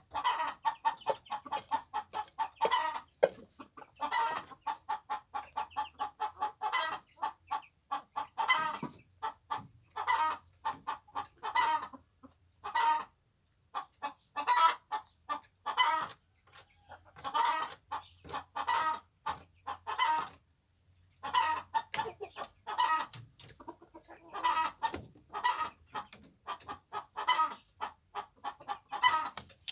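Chickens clucking: many short clucks in quick runs, broken by a couple of brief pauses.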